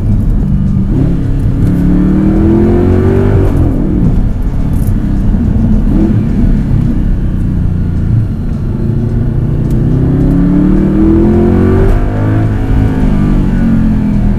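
First-generation Audi R8's mid-mounted 4.2-litre V8 accelerating hard, heard from inside the cabin: the engine note climbs in pitch and breaks at a quick single-clutch (R tronic) upshift about four seconds in, then climbs again to another upshift about twelve seconds in.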